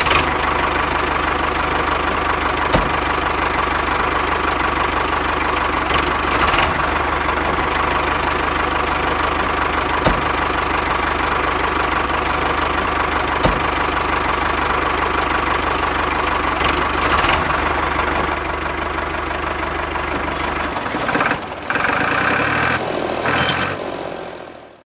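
A small engine running steadily. About 21 seconds in, its low hum drops away and the sound turns uneven, then it cuts off just before the end.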